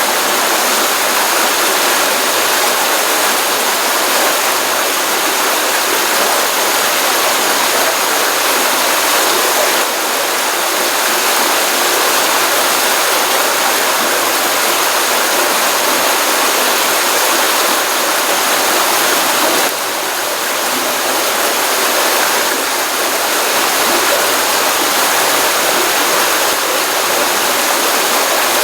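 Pond stream running after a rainstorm: a steady, continuous rush of flowing water, with slight brief dips in level about ten and twenty seconds in.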